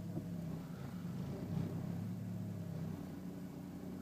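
2001 BMW E46's engine idling with the automatic gearbox in reverse, heard from inside the cabin: a steady low hum that shifts slightly in tone about three seconds in. The owner calls the idle very rough.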